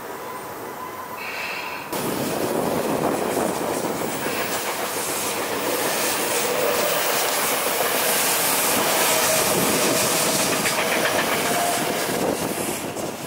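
Electric commuter train on the Tobu Skytree Line running through the station: a loud rush of wheels on rails sets in suddenly about two seconds in and eases off near the end, with wheel clatter and a faint whine from the train.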